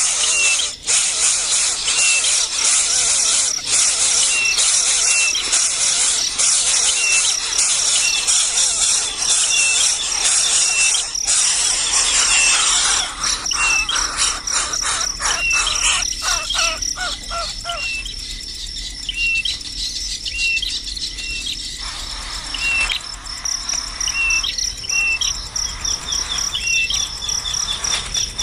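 Insects buzzing and trilling in a dense high chorus, with a short chirp repeating about once a second. A bird gives a quick run of notes about two thirds of the way through.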